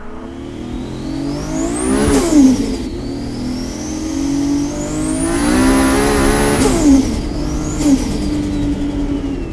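Big-turbo Toyota 2JZ straight-six revving hard three times: a high turbo whistle climbs as the engine winds up and cuts off with a sharp crack each time the throttle shuts, and near the end the whistle winds down.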